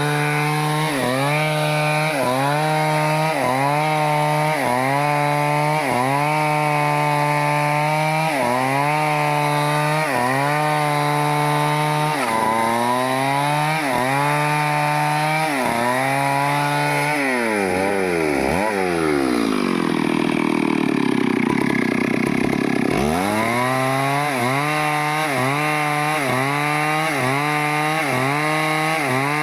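Stihl chainsaw running under load while cutting through teak wood. Its engine pitch dips and recovers about once a second. About two-thirds of the way through, the pitch drops low for a few seconds, then climbs back.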